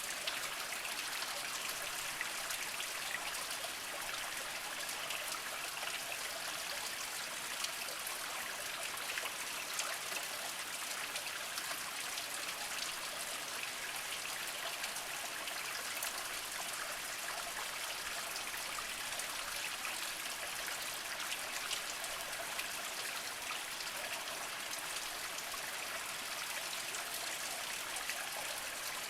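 Small spring stream trickling and splashing over mossy rocks: a steady water hiss with many fine drips and splashes.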